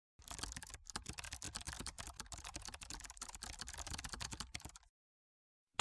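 Fast typing on a computer keyboard: a dense run of key clicks that starts just after the beginning and stops about a second before the end.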